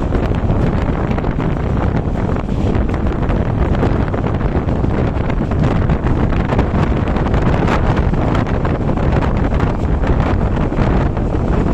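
Express passenger train moving, a steady low rumble of wheels on rails with scattered clicks, and heavy wind buffeting the microphone.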